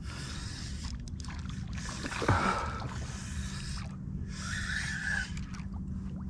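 Water lapping against a plastic fishing kayak's hull with low wind noise, and a brief falling sound about two seconds in.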